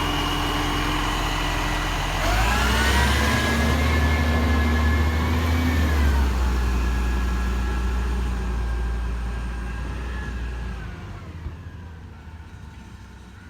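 Garbage truck's diesel engine revving up about two seconds in and holding high for a few seconds. It then drops back, runs on lower and fades away near the end.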